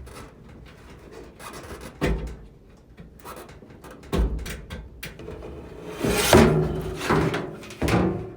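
Scattered knocks and rattles of hands and meter probes working against the sheet-metal parts inside an opened clothes dryer. There are single knocks about two and four seconds in, and a louder cluster of clatter near the end.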